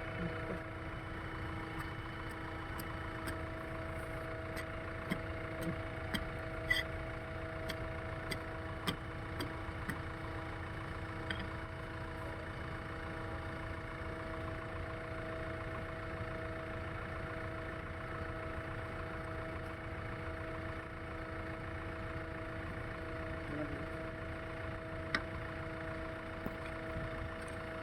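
A heavy machine's diesel engine running steadily at one speed, with scattered faint clicks.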